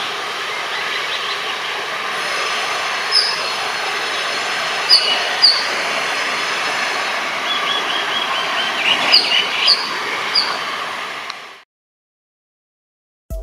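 EMD diesel-hauled passenger train moving away with a steady rumble, and birds chirping several times over it. The sound fades out shortly before the end.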